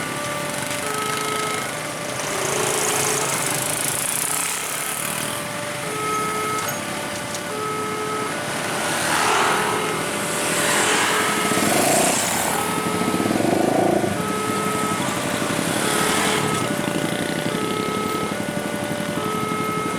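Railway level-crossing warning alarm: an electronic two-note chime, its high and low notes alternating evenly throughout, sounding over the engines of passing motorcycles and other slow traffic, which grow louder around the middle.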